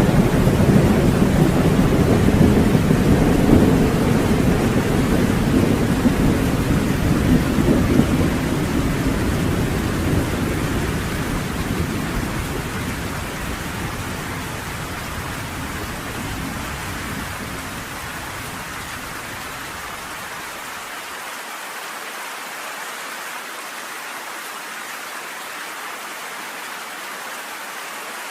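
Rain falling steadily on a cabin porch, with a long roll of thunder that rumbles loudly at first and slowly fades away over about twenty seconds, leaving only the even hiss of the rain.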